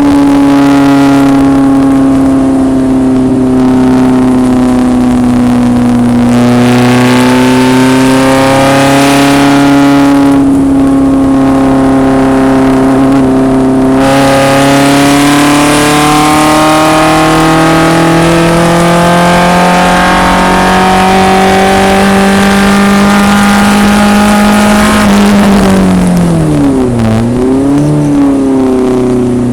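1974 BMW 2002 racecar's four-cylinder engine running hard on track, its pitch drifting slowly as it holds high revs. Near the end the revs drop and come back up twice in quick succession.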